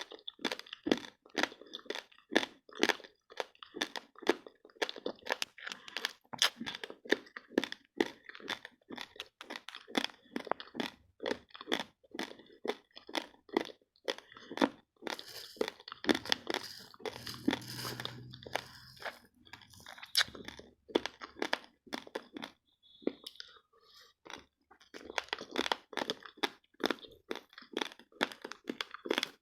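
Raw, uncooked basmati rice grains being chewed close to the microphone: rapid crisp crunches, about three a second, with a short pause about three-quarters of the way through.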